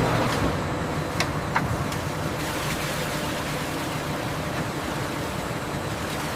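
Steady machinery noise, with a few light clicks or clacks about a second in.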